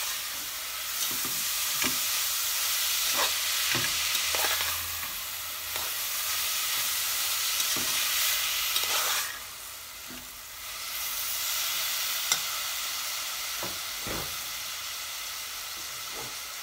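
Grated carrots frying in butter and sugar in a metal saucepan, sizzling steadily while a metal spoon stirs and scrapes them, with scattered knocks of the spoon against the pan. The sizzle drops for a couple of seconds a little past halfway.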